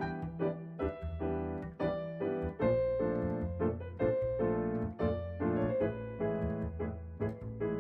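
Background music: a piano playing a steady run of notes over a sustained bass, with no voice.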